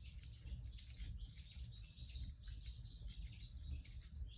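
Small birds chirping faintly, many short chirps, over a low steady rumble.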